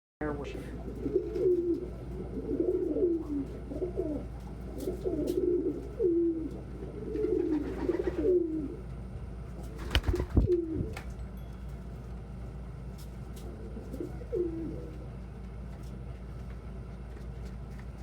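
Domestic pigeons cooing, a run of low, wavering coos one after another, thinning to a few single coos later on. About ten seconds in there is one sharp, loud thump.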